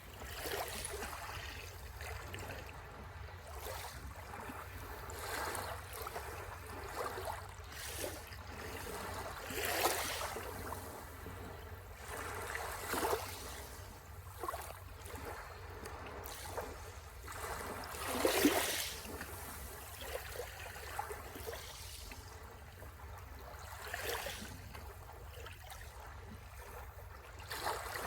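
Sea waves breaking and washing up the shore, swelling every few seconds over a steady wash of water, with the biggest surges about ten seconds in and just past halfway.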